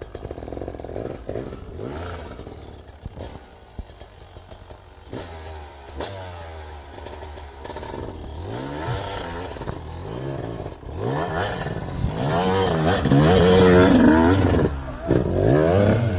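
Snow bike (dirt bike on a track kit) engine revving hard in repeated surges, the pitch climbing and dropping with each blip of the throttle. It gets louder from about two-thirds of the way in, at full throttle on the hill climb.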